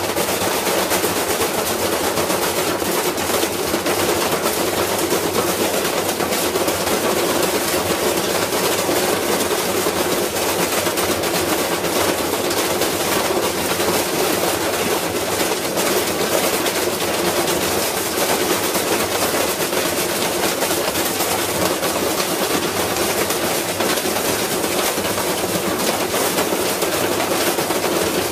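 Washing machine spin cycle with a heavy piece of iron inside the drum, making a loud, continuous, fast clattering and banging from the violently out-of-balance load as the machine destroys itself.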